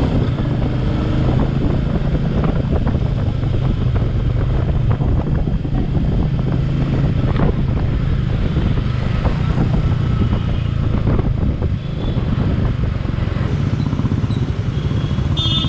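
Royal Enfield Meteor 350's single-cylinder engine running at a steady cruise while the bike is ridden, with a constant low exhaust hum and a brief drop in level about twelve seconds in.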